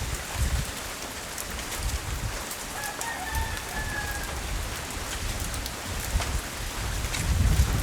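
Steady rain falling, with a faint rooster crowing once about three seconds in, a single call lasting about a second and a half. A low rumble swells near the end.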